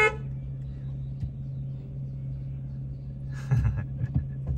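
Car engine idling with a steady low hum. A short, loud pitched call right at the start, and a brief rustle about three and a half seconds in.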